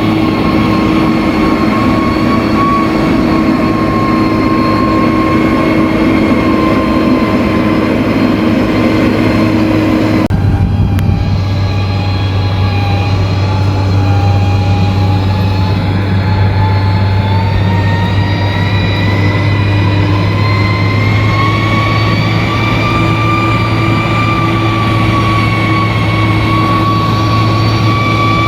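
Bulldozer's diesel engine running steadily, with a high whine above its low hum. The sound changes abruptly about ten seconds in, after which the engine hum is deeper and the whine slowly rises in pitch.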